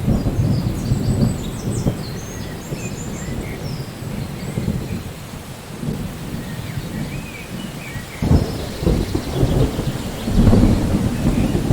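Steady rain with rolling thunder rumbling underneath, the rumble swelling about eight seconds in and again near the end.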